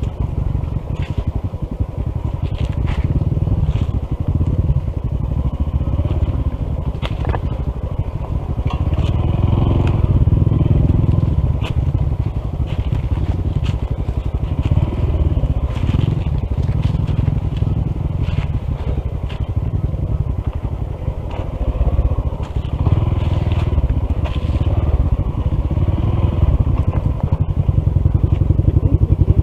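Honda CT125's single-cylinder engine running as the motorcycle is ridden down a rough dirt mountain trail. Scattered crackles and clicks from the tyres on gravel and leaves sound over a steady pulsing rumble.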